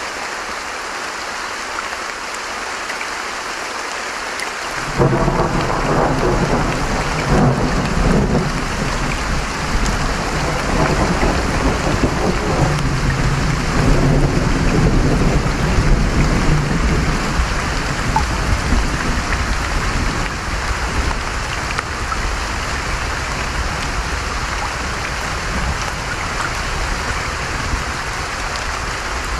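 Steady hiss of rain and a running stream. About five seconds in, a long roll of thunder breaks in suddenly, rumbles for around ten seconds, then dies down under the rain.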